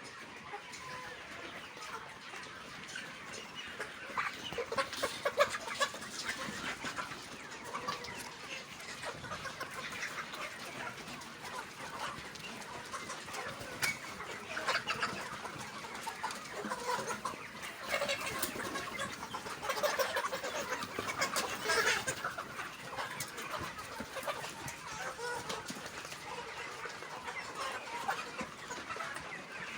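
A flock of chickens clucking, with many short, overlapping calls coming and going.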